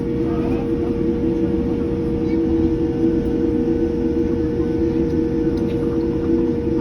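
Steady drone inside the cabin of an Airbus A330-300 airliner: constant engine and air noise with a steady low rumble and a continuous hum.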